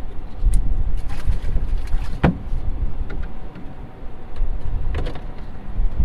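Wind buffeting the microphone in uneven gusts, with a few light clicks and one sharper knock about two seconds in.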